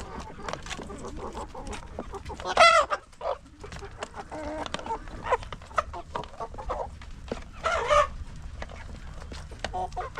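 A flock of chickens clucking, with scattered short clicks. Two loud calls stand out, one about two and a half seconds in and one about eight seconds in.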